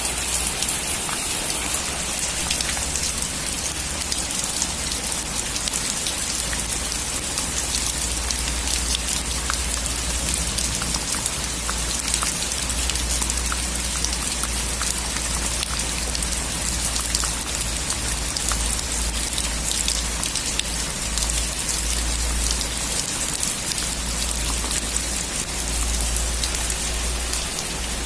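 Steady rain falling, a dense patter of drops over a constant hiss, with a low rumble underneath throughout.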